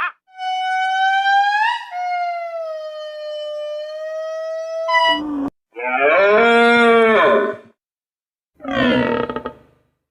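Animal calls: one long, high, steady call lasting about five seconds, then two shorter, lower calls that rise and fall in pitch.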